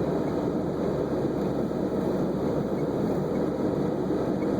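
Steady drone of a Volvo V70 wagon driving through fresh snow, heard from inside the cabin: engine and tyres working through the snow.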